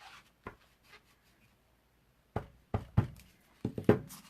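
A few sharp knocks and taps of stamping supplies (ink pad, stamp and tools) handled on a craft table. They come in two quick bunches, a little past two seconds in and again near the end.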